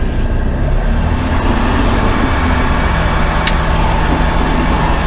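Aquila A211 light aircraft's Rotax 912 flat-four engine idling steadily on the ground, with a brief click about three and a half seconds in.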